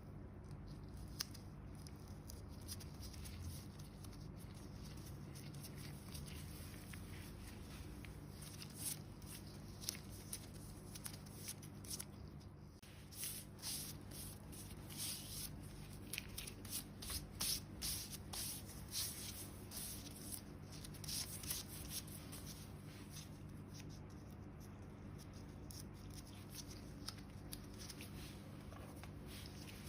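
Skin of a foot being rubbed and scraped in short strokes, which come in a quick run from about 13 to 22 seconds in, over a steady low hum.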